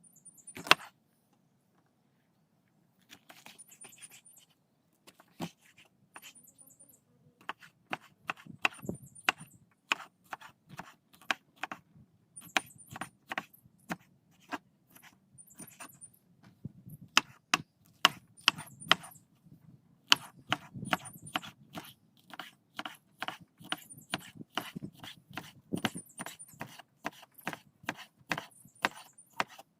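Many short, sharp knocks and taps in irregular runs of several a second, growing busier in the second half, with a few brief high chirps between them.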